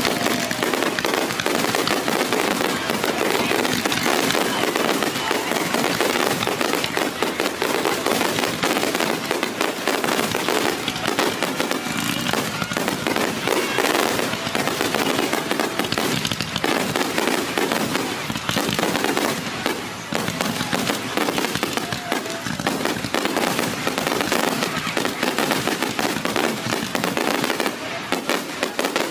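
Aerial fireworks display going off in a dense, unbroken run of bangs and crackles.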